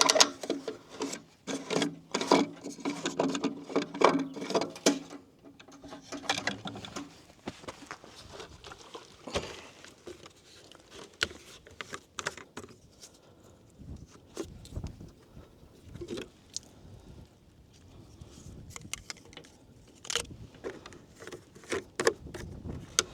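Irregular clicks, knocks and scrapes from handling a jerry can and fuel cap while diesel is put into the skid steer's tank, with a steady low hum through the first six seconds or so.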